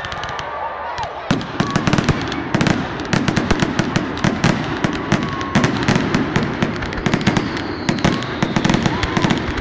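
A rapid, irregular string of sharp cracks and pops, starting about a second in and running on densely, over the voices of a crowd.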